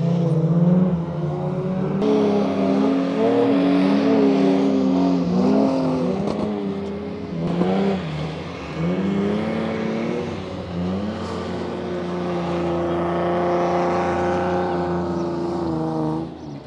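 Land Cruiser engines revving hard under load in sand, their pitch rising and falling with the throttle as the 4x4s climb and slide on dunes. The sound changes abruptly a few times, around two seconds in and again near the middle.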